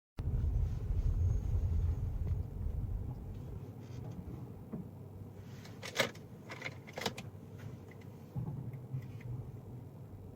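Garbage truck engine running, loudest just after the start and then settling lower, with two sharp metallic knocks about six and seven seconds in.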